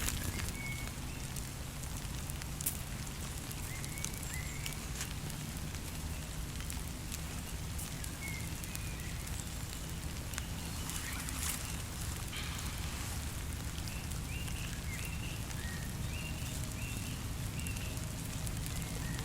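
Campfire burning steadily and crackling, with scattered sharp pops. Short high chirps sound several times, more often in the second half.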